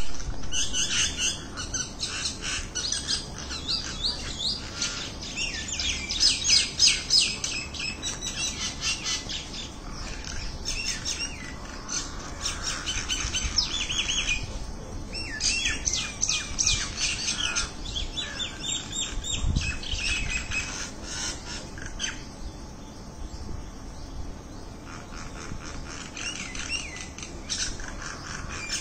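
A flock of birds chirping together: many quick, high chirps overlapping in a dense chorus, thinning out for a few seconds past the middle before picking up again.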